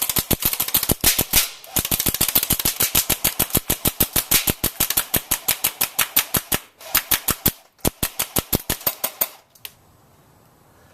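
Echo 1 MP5 electric airsoft gun firing rapidly, a fast even string of sharp clicks at roughly eight to ten shots a second, broken by a few short pauses. The firing stops about nine seconds in.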